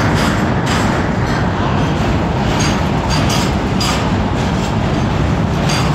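Goods train of covered wagons rolling past close by: a steady, heavy rumble of steel wheels on the rails, broken by irregular clanks and brief high metallic squeaks.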